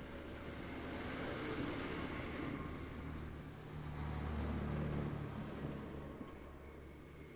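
Heavy shingle-hauling trucks driving past on a road, their diesel engines humming over tyre and road noise. The sound swells as one truck passes, loudest about four to five seconds in, then fades.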